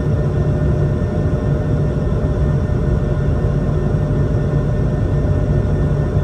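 Airbus A220-300's Pratt & Whitney PW1500G geared turbofans running under power: a steady, loud low rumble with a faint whine of steady tones above it.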